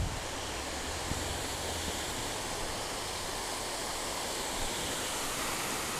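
Waterfall rushing steadily, an even roar of falling water, with a faint low hum in the first couple of seconds.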